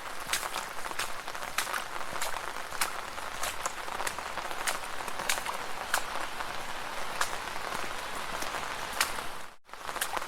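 Footsteps splashing through shallow puddles on wet ground: a steady wet hiss broken by sharp splashes, about one or two a second. The sound cuts out briefly near the end.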